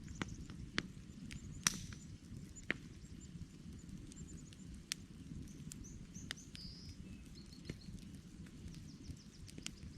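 Campfire burning with a low steady rumble and scattered sharp crackles and pops, the loudest about a second and a half in. Small birds chirp faintly in short high notes several times.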